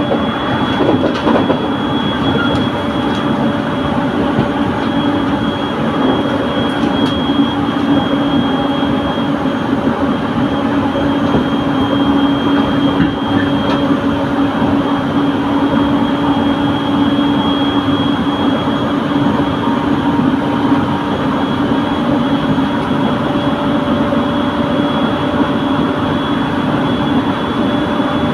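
Passenger train running steadily at speed: continuous running and rail noise with a steady hum and a faint high whine.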